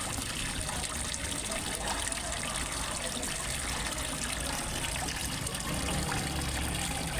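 Water steadily trickling and splashing into a fish pond, as from a small waterfall or outflow.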